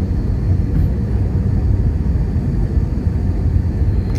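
Steady roar of a jet airliner's engines and rushing air heard inside the passenger cabin on final approach to landing, with a faint high whine above it.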